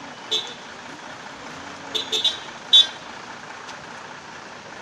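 Road traffic running steadily, with short vehicle horn beeps: one early, a quick triple beep about two seconds in, and a louder single beep shortly after.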